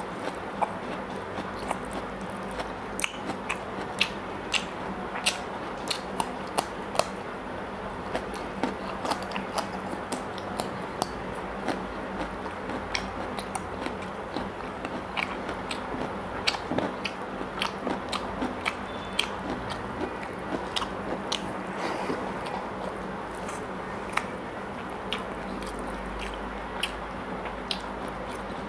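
Close-miked eating of mutton curry and rice: chewing and lip smacking, with many short sharp clicks at irregular intervals.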